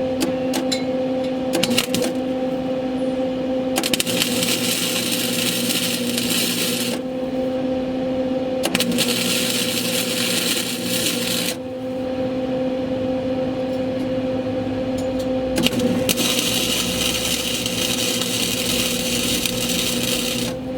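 Electric arc welder welding an exhaust test pipe: three runs of crackling arc, each three to four seconds long, over a steady electrical hum.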